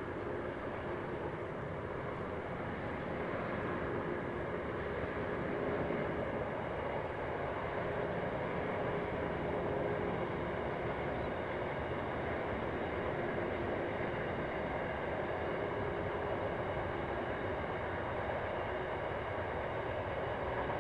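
Diesel freight train hauled by Bowman's Rail 1501-class locomotives running steadily, a continuous rumble with faint engine tones that fade out about halfway through.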